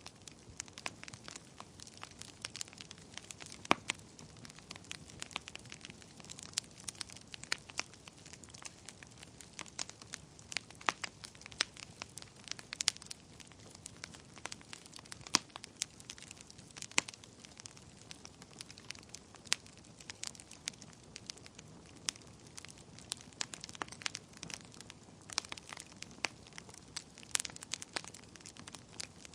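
Wood fire burning in a fireplace: irregular sharp crackles and pops, several a second, over a soft steady hiss of flame.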